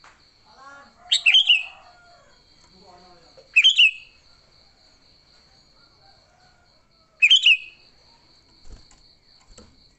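Sooty-headed bulbul giving three short, loud, falling call phrases a few seconds apart: the agitated 'fighting' calls used to lure other bulbuls. A faint, steady, pulsing high-pitched tone runs underneath.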